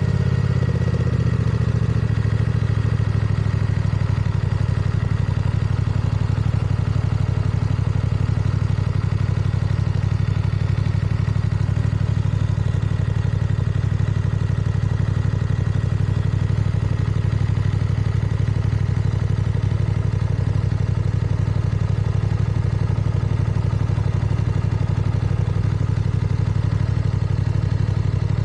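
Motorcycle engine running at a steady speed while riding, a constant low drone that settles about a second in.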